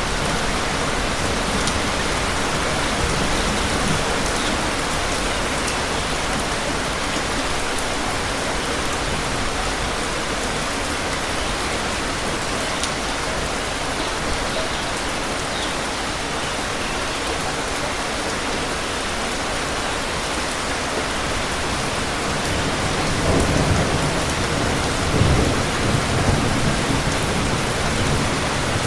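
Steady heavy rainfall hissing evenly, with a low rumble of thunder swelling up about three quarters of the way through.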